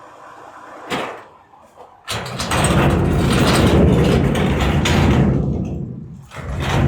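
Garbage truck at work: a sharp knock about a second in, then from about two seconds a loud stretch of engine revving with dense clattering that fades out and picks up again near the end.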